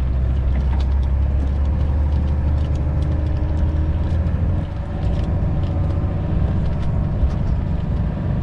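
Heavy truck's diesel engine heard from inside the cab, running steadily with a deep drone. About halfway through the level dips briefly and the even drone gives way to a rougher, unsteady rumble.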